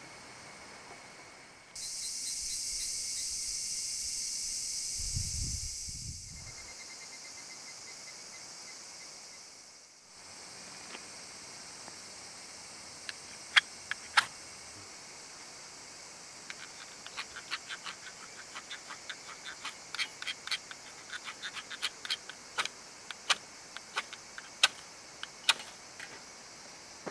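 Steady hiss with irregular sharp pops and crackles from burning wood in a campfire. The pops are sparse at first and grow frequent in the second half. A louder high hiss with a few low thumps comes briefly near the start.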